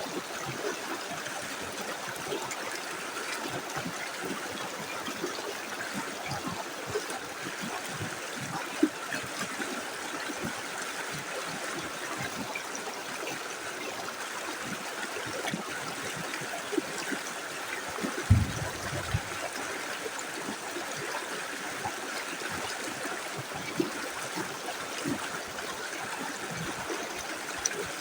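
Small river flowing steadily over stones, a continuous rush of water with small gurgles and splashes here and there, a few of them a little louder, around 9 seconds in and near 18 seconds.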